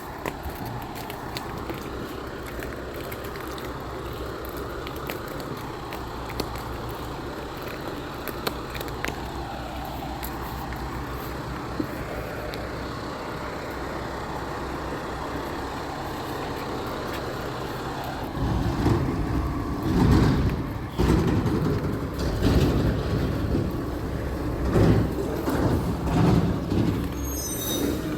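Recycling truck engine running steadily, then growing much louder and uneven about two-thirds of the way through.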